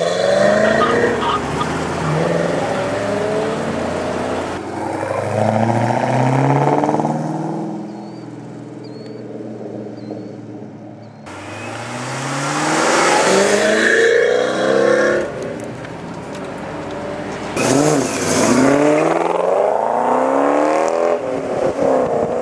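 Supercharged 2007 Ford Mustang GT's 4.6-litre V8 exhaust accelerating hard several times, its pitch climbing through each run, with a quieter spell of lower engine sound near the middle.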